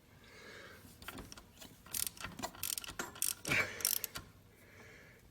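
Hand ratchet and socket clicking in quick, irregular strokes from about two seconds in, tightening down an alternator mounting bolt.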